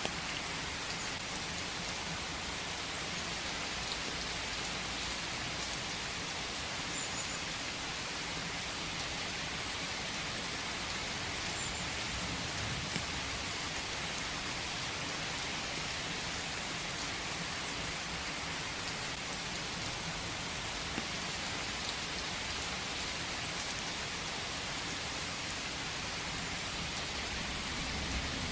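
Steady rain falling on forest foliage, an even, unbroken hiss of countless drops.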